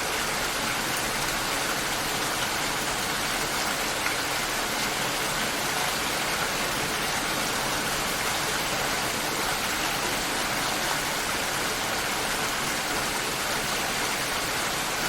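Steady rain shower, an even hiss of falling rain with dense raindrop patter.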